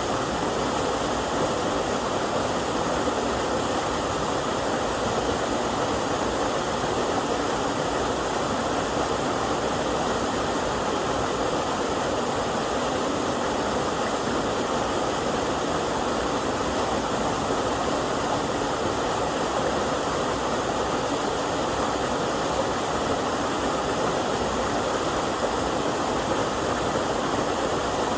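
Steady rush of a small two-strand waterfall, about 6 m high, running with low water.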